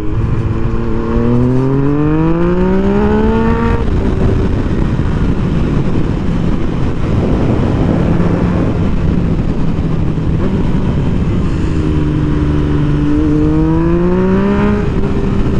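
Motorcycle engine pulling hard, its pitch rising for a few seconds before dropping at an upshift, then running steadily at speed with wind rushing over the microphone; near the end it rises again and drops at another shift.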